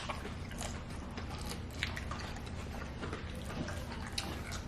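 Quiet eating sounds: soft chewing with scattered small wet clicks and ticks, over a low steady hum.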